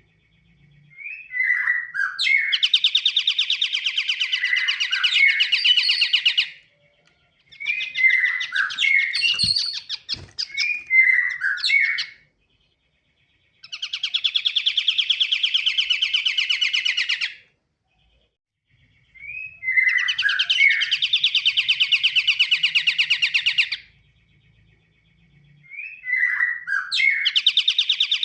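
Pied triller (kapasan kemiri) singing: each phrase starts with a few short slurred notes and runs into a fast, even trill lasting three or four seconds, repeated about every six seconds.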